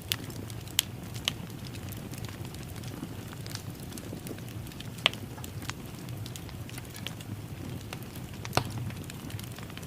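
Wood fire crackling in a fireplace: a steady low rumble of flame with scattered sharp pops and snaps, the loudest pops about a second in, halfway through and near the end.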